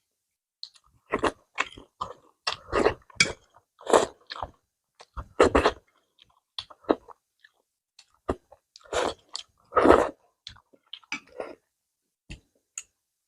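Close-miked chewing and biting of food in irregular short bursts, with silent gaps between them.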